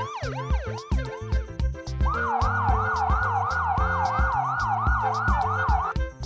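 Police car siren sound effect over children's background music with a steady beat. A slower wail fades out in the first second, then from about two seconds in a fast repeating yelp of about three or four rising sweeps a second, which cuts off near the end.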